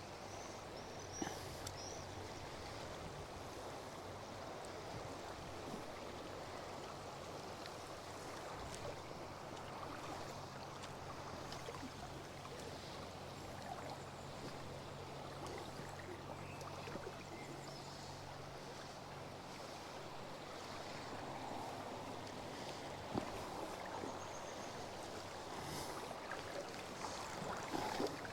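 River water running steadily, with a few sharp knocks, one about a second in and several near the end. A faint low hum sits under it and fades out about two-thirds of the way through.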